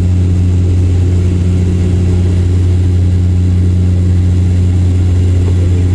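Airliner's engines heard inside the passenger cabin in flight after takeoff: a steady, loud drone with a strong low hum that does not change.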